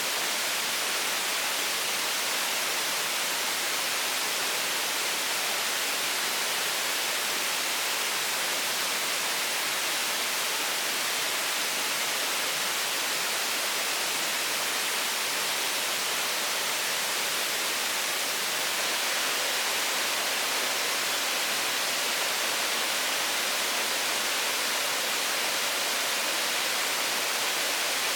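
Steady, even hiss, strongest in the high range, with no distinct events.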